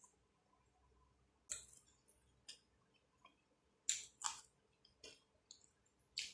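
Bites and chewing of a crispy fried chicken spring roll: a few short crisp crunches over near silence, the loudest pair about four seconds in.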